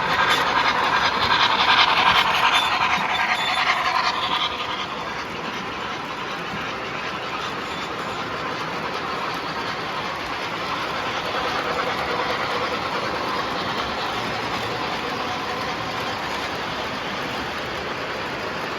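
MTH model trains running on a layout: wheels rolling on the track, mixed with the locomotive's sound system. It is louder for the first four seconds or so, then settles to a steady rolling noise.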